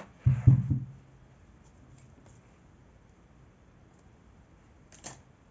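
Handling noise close to the microphone: a brief cluster of knocks and rustling about half a second in, then quiet, and one short click near the end.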